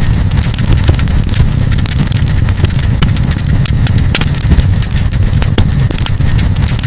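Campfire burning with a steady low rumble and frequent sharp crackles and pops. A short high chirp recurs every second or so.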